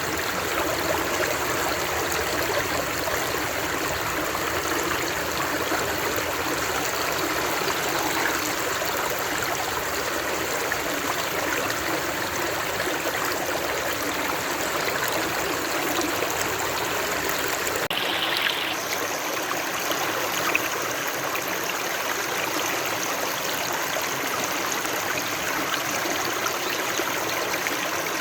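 Running water, a steady rush like a flowing stream. A little past halfway through the sound shifts slightly and loses some of its deep rumble.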